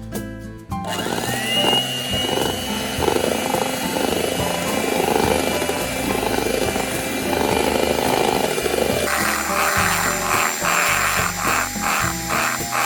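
Background music over a small electric motor, an electric hand mixer, that starts about a second in, rises in pitch and then whirs steadily. From about nine seconds the whirr pulses rhythmically, a few times a second.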